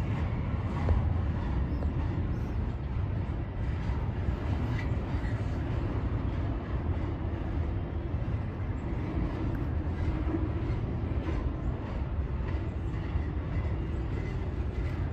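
Double-stack container freight train rolling across a steel girder bridge: a steady low rumble of wheels on rail, with light irregular clanks.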